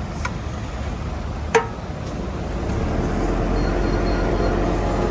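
A steady mechanical rumble, with a single sharp metallic clang about a second and a half in; the running sound grows louder in the second half.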